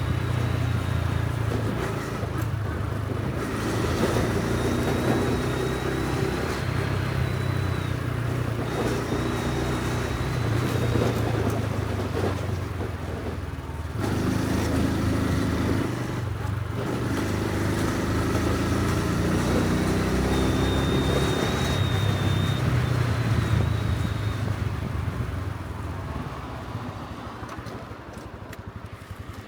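Honda Super Cub C125's single-cylinder engine and exhaust under way, the engine note building and breaking off several times with throttle changes and gear shifts. Toward the end it eases off as the bike slows, with steady road and wind rush throughout.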